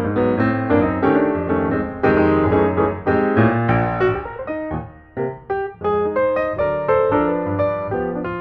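Background piano music: a keyboard playing quick notes and chords, with a short lull about five seconds in.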